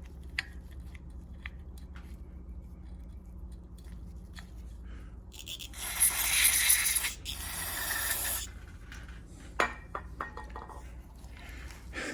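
Two hissing bursts from an aerosol can of carburetor cleaner, each a little over a second long, about six seconds in, sprayed onto the carburetor to clear a bit of debris. Light clicks and taps of parts being handled come before and after.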